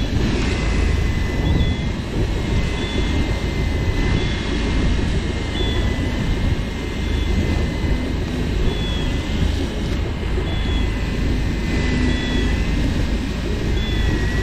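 Electric fishing reel motor whining steadily as it winds line up, with a short higher chirp repeating about once a second, over a low steady rumble.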